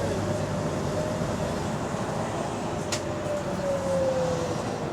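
Inside a moving double-decker bus that has an exhaust leak: steady engine and drivetrain rumble, with a whine that slowly rises and then falls in pitch. A single sharp click sounds about three seconds in.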